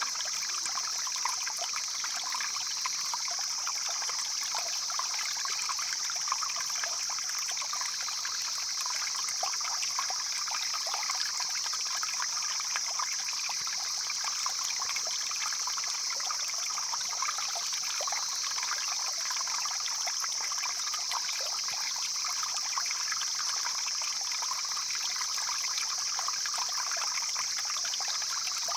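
Stream flowing steadily: continuous trickling, rushing water with an even high hiss.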